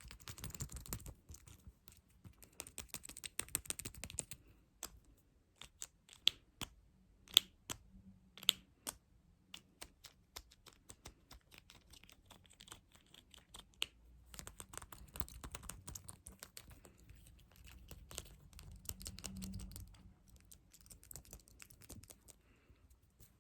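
Fast tapping and scratching: rapid dense taps at first, then sparser sharp single taps through the middle, then a longer stretch of scratching, stopping just before the end.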